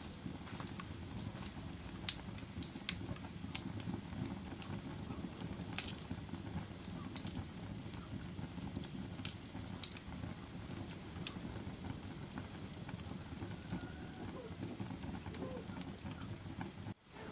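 Fire burning with a steady low rumble and scattered sharp crackles and pops. The sound cuts out for a split second near the end.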